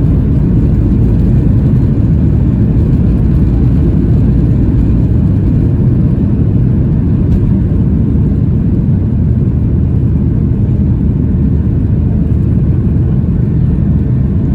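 Boeing 737-800 cabin noise during the climb: the CFM56-7B turbofan engines and airflow make a steady, loud, low rumble.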